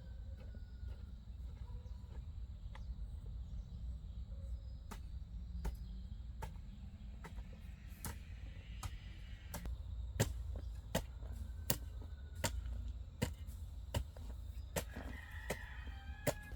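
A series of sharp knocks or strikes, like a hand tool hitting something: sparse at first, then about two a second in the second half, over a low rumble.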